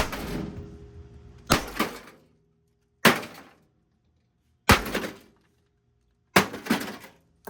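Five heavy blows smashing a Hamilton Beach microwave oven, about one every one and a half seconds, each a sharp crash with a short rattling, ringing tail.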